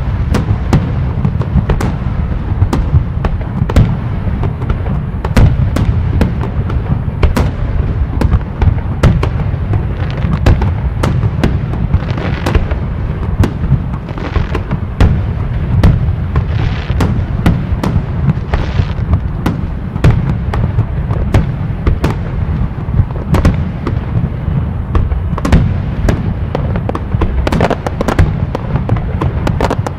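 Fireworks and firecrackers going off in quick, irregular succession, sharp pops coming several times a second over a steady low rumble.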